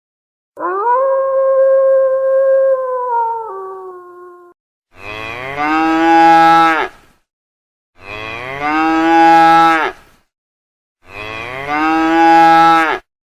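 A long, steady howl-like call, then a cow mooing three times, the moos about two seconds long each, near-identical and about three seconds apart.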